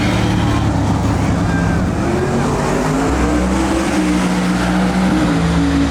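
Truck engine revving hard, its pitch stepping and gliding up and down.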